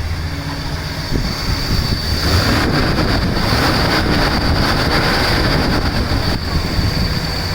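Ford 429 V8 running shortly after a cold start, with a thin high whine over it. About a second in, a rushing noise joins and grows louder.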